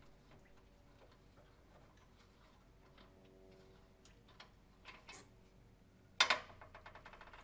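Light, scattered clicks and ticks of hand tools being worked, then a sharp clatter about six seconds in followed by a quick run of even ticks, like a ratchet.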